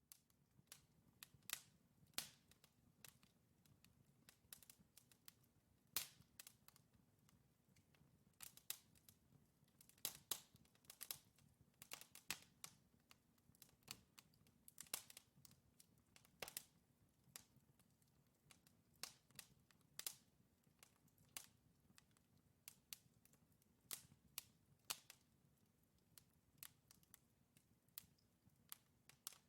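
Wood fire burning in a fireplace: logs crackling with irregular sharp pops and snaps, about one or two a second, over a faint steady low rumble of the flames.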